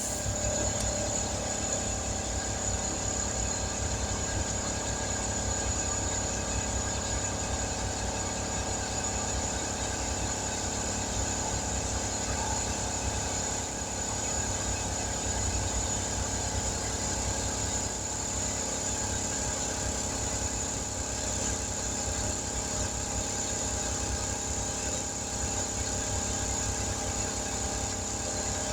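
Air compressor running steadily, with a constant high hiss or whine over a low pulsing motor hum, during the airing-up of a patched tire.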